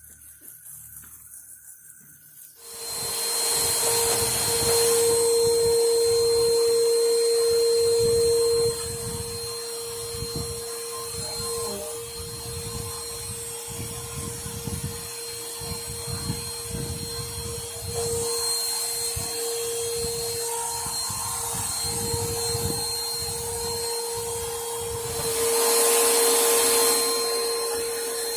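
Vacuum cleaner switched on a couple of seconds in and running with a steady whine. It is loudest for the first few seconds, then drops and its level shifts up and down.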